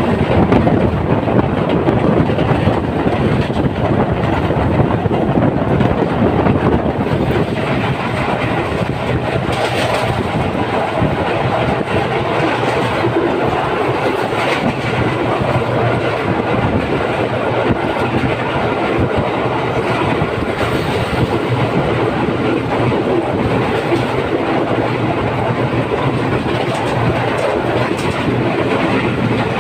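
A moving passenger train running along the track, heard from on board: a steady, loud rumble and rattle of wheels on rails.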